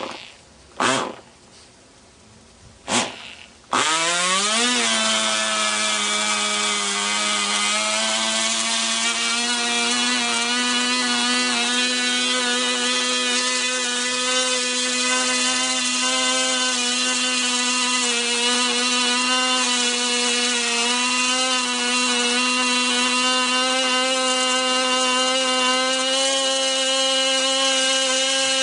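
Norvel BigMig .061 1 cc glow two-stroke model engine: three short bursts as it is being started, then it catches about four seconds in, revs up and runs steadily at a high, buzzing pitch that creeps slightly higher as it runs on its test run.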